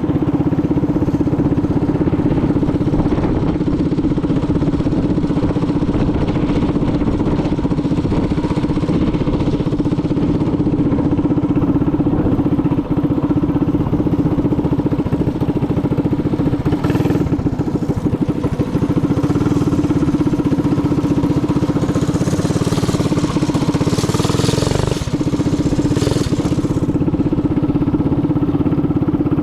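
Minibike engine running at a steady pitch, with a brief hiss a little past halfway and a longer hiss near the end.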